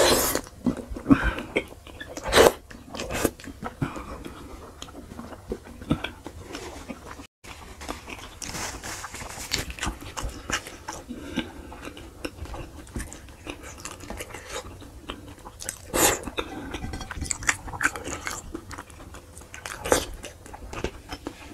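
Close-miked mouth sounds of a man eating by hand: chewing, lip smacks and wet clicks as he sucks food from his fingers, in irregular bursts, the sharpest a little over two seconds in, about sixteen seconds in and about twenty seconds in.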